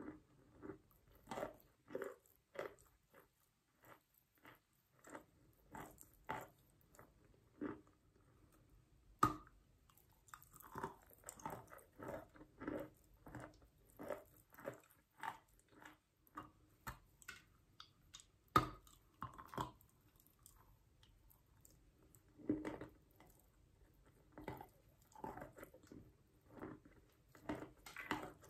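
Close-up crunching chews of a mouthful of wet chalk, about one and a half chews a second with short pauses. Two sharp, loud cracks stand out, about nine and about eighteen and a half seconds in.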